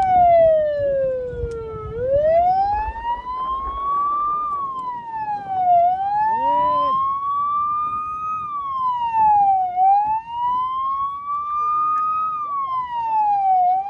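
A siren wailing, its pitch sliding slowly up and down in long sweeps, about one rise and fall every four seconds.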